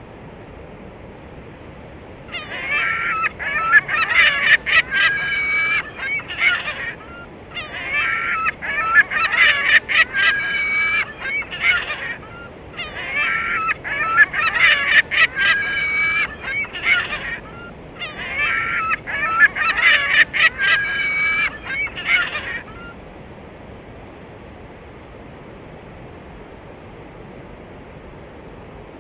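Honking bird calls, loud, in four near-identical runs of about four to five seconds each, separated by short gaps and ending after about twenty-three seconds, over faint steady surf noise.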